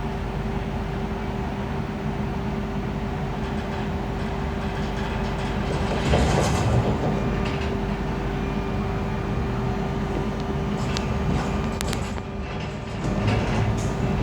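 RER A MI 09 electric multiple-unit train starting off, its traction equipment running with a steady whine over the rumble of the train, with a few sharp clicks in the second half.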